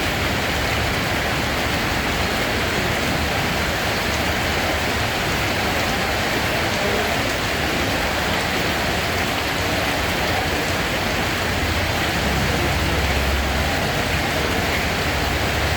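Steady rain falling: an even, unbroken hiss, with a low rumble swelling briefly a few seconds before the end.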